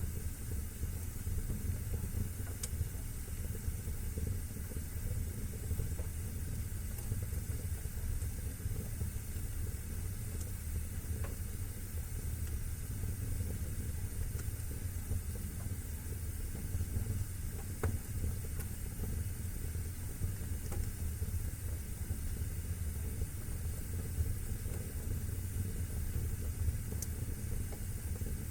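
Wood fire burning in a fireplace: a steady low rumble and hiss with a few faint, scattered crackles.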